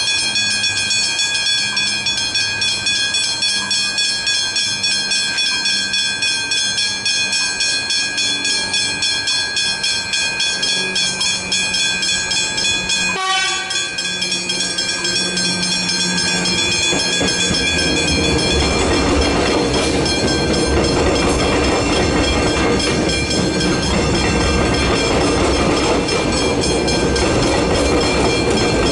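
Railway level crossing warning bells ringing with rapid, evenly repeated strikes. A little over halfway in, a train starts passing, and the rumble of its wheels on the rails swells beneath the bells.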